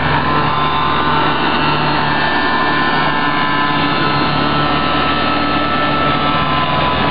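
Small engine running steadily at an even speed, with a constant buzzing pitch.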